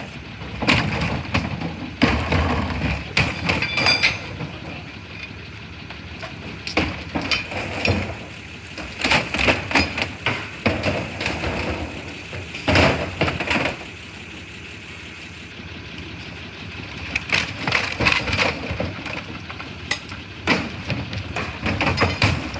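Irregular knocks, cracks and clattering in clusters, with short quieter stretches between them.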